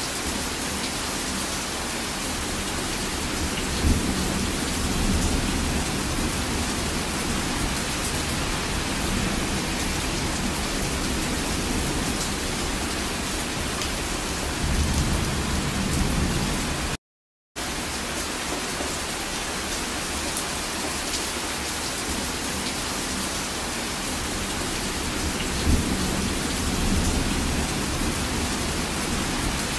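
Heavy rain falling steadily in a rainstorm, a constant hiss of downpour with a few brief low rumbles. The sound cuts out completely for about half a second around the middle.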